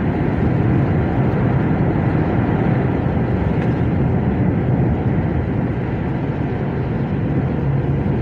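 Heavy truck driving steadily through a road tunnel, heard from inside the cab: a constant low engine and tyre rumble.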